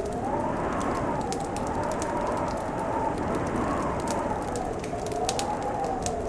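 Wood fire crackling with scattered sharp pops and snaps, over a steady wind howl whose whistling pitch slowly rises and falls.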